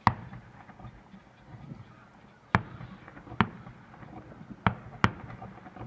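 Aerial fireworks shells bursting: five sharp bangs at uneven intervals, the last two close together, each trailed by a short echo.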